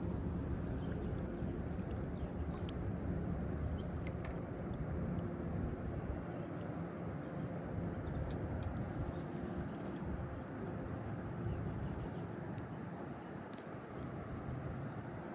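Open-water outdoor ambience: a steady low rumble with a faint hum in the first few seconds, easing after about six seconds, while songbirds chirp in short high calls throughout.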